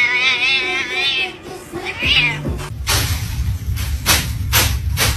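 A cat meowing: one long, wavering meow, then a shorter meow about two seconds in. After that a low rumbling noise with several sharp knocks.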